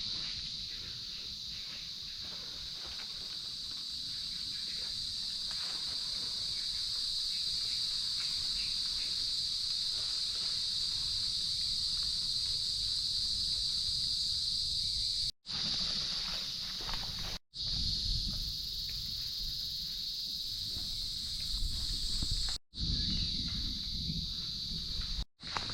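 A steady high-pitched chorus of night insects, crickets or katydids, droning at one pitch, over low rustling and footsteps in undergrowth. The sound drops out abruptly for a moment four times.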